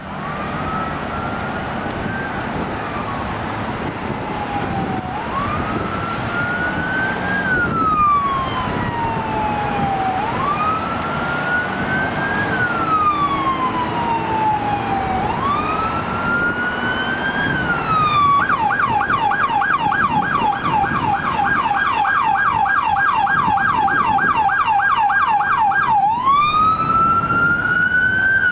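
Emergency vehicle siren on a fire department response unit, sounding a slow wail that rises and falls about every five seconds, then switching about two-thirds of the way through to a fast yelp of three to four cycles a second, and back to a rising wail near the end. A steady low rumble of traffic or engine noise runs underneath.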